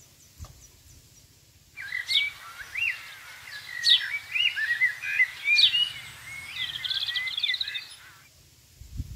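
A songbird singing a varied run of whistled notes, chirps and quick pitch slides, ending in a fast trill. It starts about two seconds in and stops about a second before the end.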